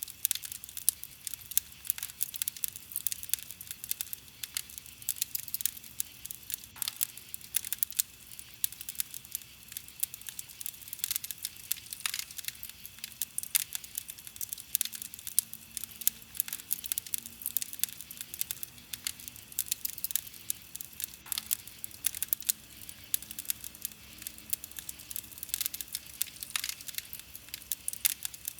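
Wood campfire crackling: a dense, irregular run of small snaps and pops, with a few louder pops standing out here and there.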